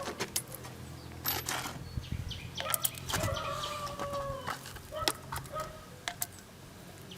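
Chickens calling: a long drawn-out call about three seconds in, then a few shorter calls, among scattered sharp clicks and knocks.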